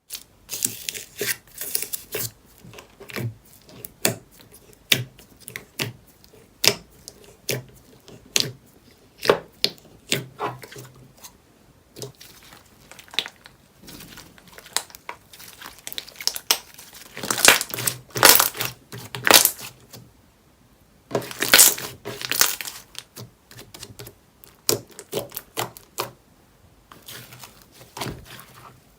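Slime being squeezed and pressed by hand, giving irregular sticky clicks and crackles, with two longer stretches of dense crackling a little past the middle.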